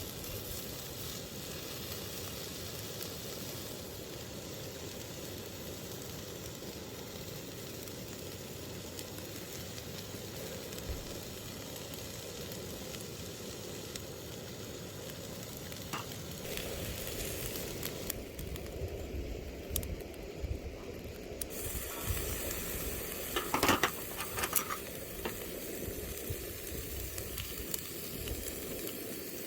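Food sizzling in a frying pan, a steady hiss, with a few sharp clicks and knocks about two-thirds of the way through.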